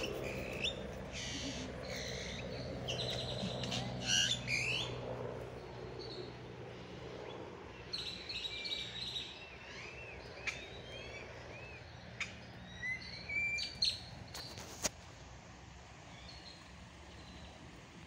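Birds chirping and calling: quick chirps and trills, and a run of short arched whistled notes about eight seconds in. A low steady hum sits under them and fades out over the first half.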